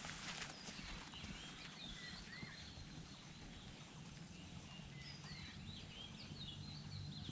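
Faint birdsong: several birds giving short chirps that rise and fall, scattered throughout, over a low steady background hum.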